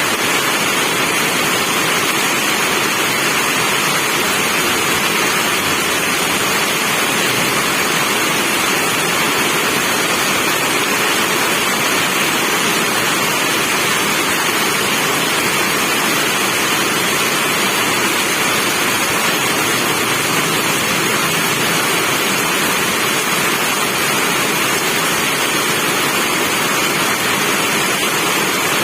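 Steady rain, an even hiss that never changes.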